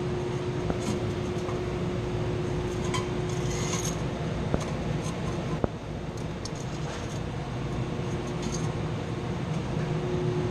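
Steady hum of machinery running, with a steady tone that drops out about four seconds in and comes back near the end. Over it come a brief scraping and a few sharp metallic clicks as pipe fittings and parts are handled.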